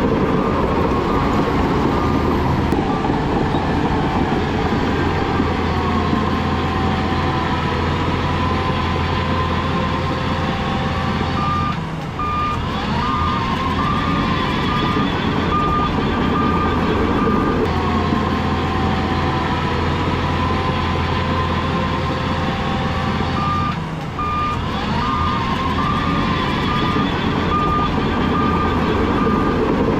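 Heavy diesel earthmoving machinery running under load, the engine pitch rising and falling, while a reversing alarm beeps steadily in three stretches.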